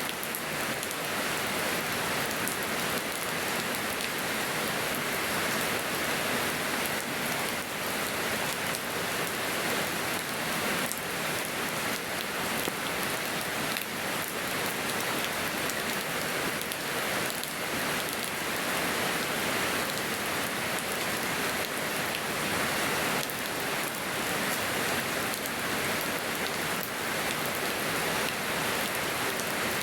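Steady rain falling on the ground and surfaces of a yard: an even hiss of rain with faint scattered drop ticks.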